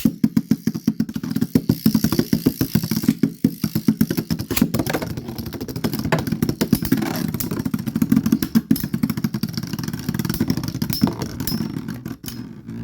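Two metal Beyblade spinning tops, Storm Capricorne M145Q and Rock Orso D125B, whirring in a stadium, with a dense, rapid rattle of clicks and knocks as they clash with each other and the stadium wall. The sound starts suddenly and runs on steadily without a break.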